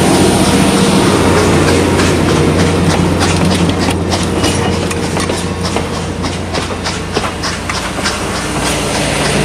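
Railroad passenger coaches rolling slowly past, their wheels clicking repeatedly over the rail joints under a steady low hum.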